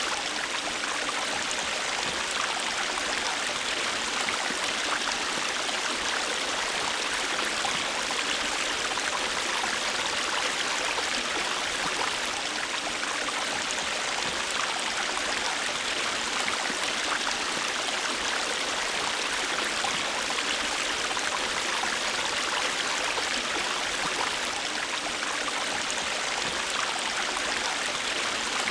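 A river running steadily over rocks: an even rush of flowing water with fine splashing, unchanging throughout.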